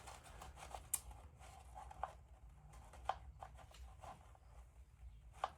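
Faint handling noise: a few light clicks about a second apart over a low steady hum.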